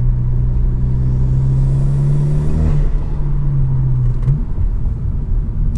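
Turbocharged Honda Civic engine pulling in third gear, heard from inside the cabin, with a rising intake hiss for the first few seconds. The engine note then drops about three seconds in as the throttle eases, and shifts again near the end.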